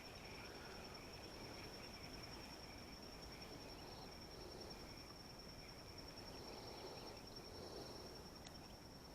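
Faint, steady high-pitched chirring of insects, with a second, lower trill underneath.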